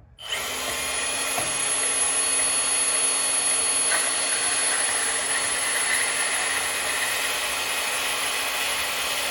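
A power tool cutting into the steel brackets of a one-ton axle housing, running steadily with a hissing, whining tone.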